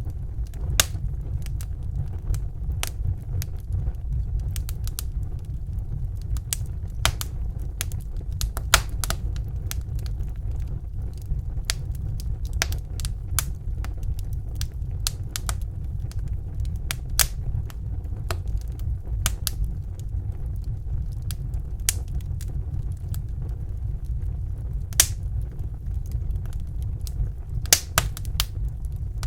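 Fireplace fire crackling: irregular sharp pops and snaps, several a second and some louder than others, over a steady low rumble.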